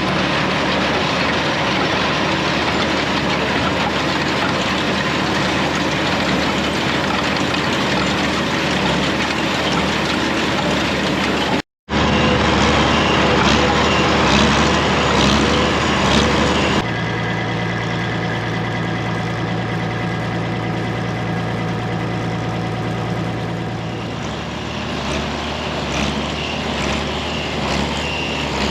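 Farm tractor engine running with a New Holland small square baler working behind it, a loud, steady machinery noise that changes character abruptly about 12 and 17 seconds in.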